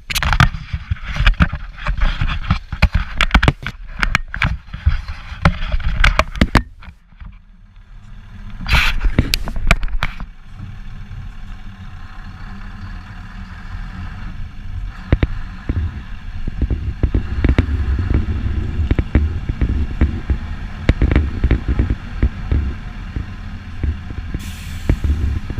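Heavy truck diesel engine running with a steady low rumble. For about the first seven seconds there are many irregular sharp cracks and knocks. A louder noisy burst comes around nine seconds in.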